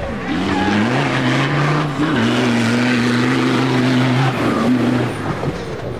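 Off-road race car engine running hard under throttle: its pitch climbs early on and is held high for about two seconds, then drops and eases off about four to five seconds in.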